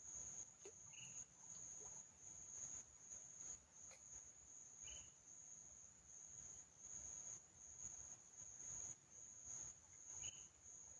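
Faint, steady high-pitched insect trill, most likely a cricket, swelling and fading in pulses, with three brief short chirps about one, five and ten seconds in.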